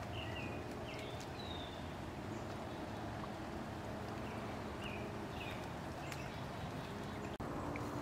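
Small birds calling in short, quick chirps, a cluster in the first couple of seconds and a few more around the middle, over a steady low background hum, with one or two faint isolated taps.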